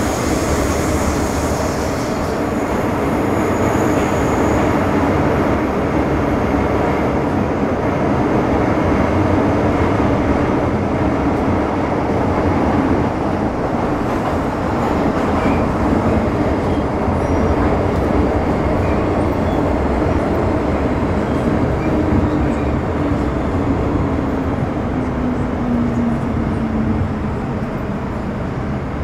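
Interior running noise of an MTR Metro Cammell M-Train electric multiple unit with GEC GTO chopper traction, travelling between stations: a steady rumble of wheels and motors. A high chopper whine stops about two seconds in. Near the end a motor tone falls slowly in pitch.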